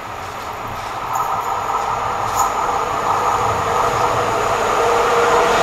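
EP07 electric locomotive hauling a passenger train approaching, its rolling rumble growing steadily louder, with a steady hum coming in near the end.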